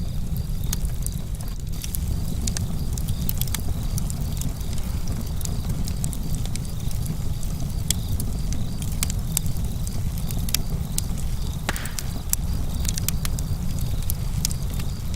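Campfire crackling: irregular sharp snaps and pops, many each second, over a steady low rumble.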